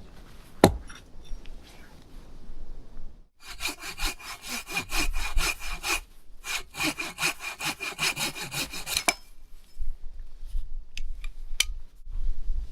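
Hand saw cutting through wood in quick, even back-and-forth strokes, several a second, in two runs with a short pause between them, after a single sharp knock near the start. It is firewood being cut for a tent stove.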